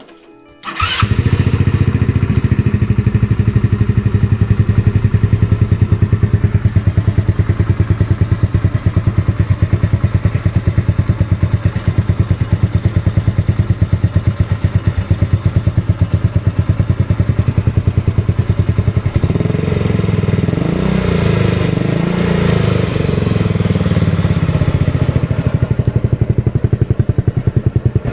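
150cc 157QMJ (GY6-type) single-cylinder four-stroke scooter engine starting up about a second in and then running steadily at idle, with the throttle raised to higher revs for several seconds past the middle before settling back.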